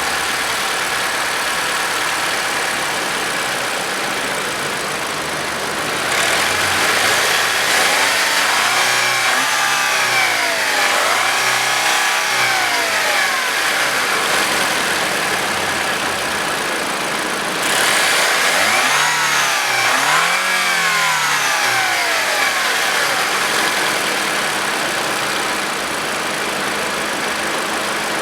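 2015 Lexus NX 200t's 2.0-litre turbocharged four-cylinder engine idling, then blipped up and down several times in two bursts of revving, about eight and nineteen seconds in, each time dropping back to idle.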